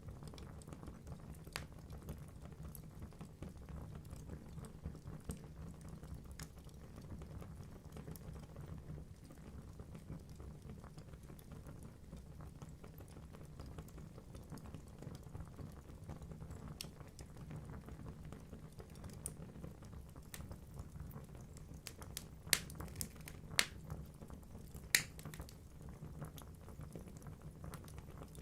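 Wood logs burning in a fireplace: a steady low rumble of flames with scattered crackles, and a few sharper pops near the end.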